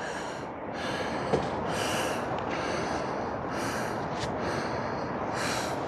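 A hiker's breathing close to the microphone, heavy and quick at about one breath a second, out of breath from the long uphill climb on stairs.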